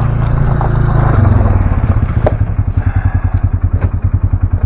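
The Ranger's engine running with a low drone, then easing off from about a second in to a slower, evenly pulsing putter, with a few light rattles.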